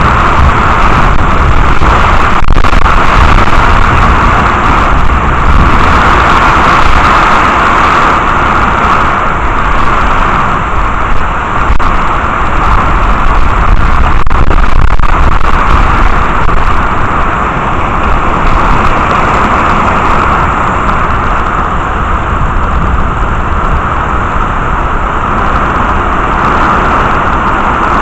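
Steady, loud downpour of rain from a thunderstorm, an even rushing hiss with no distinct thunderclap.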